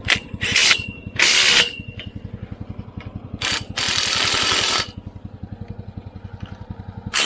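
Makita 40V cordless impact driver (TD001) hammering bolts tight in several short bursts, the longest about a second long near the middle. A steady low rhythmic throb runs underneath.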